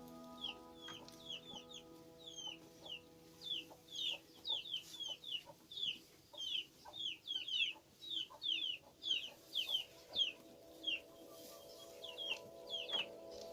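Chicks peeping: a rapid, overlapping run of short, high, falling cheeps, several a second, with faint background music under it.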